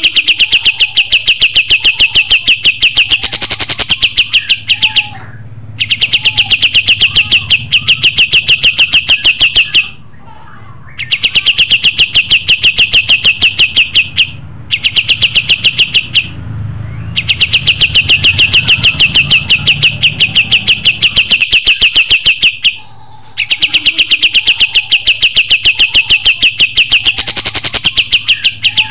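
Kapas tembak songbird singing its rapid trill: bouts of about three to five seconds of fast, evenly repeated high notes, roughly seven a second, broken by short pauses, with a few faint lower chirps between bouts.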